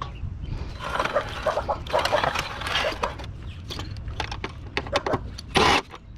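Metal parts and hand tools clicking and clattering as a window air conditioner is taken apart, with one louder, short, harsh noise near the end.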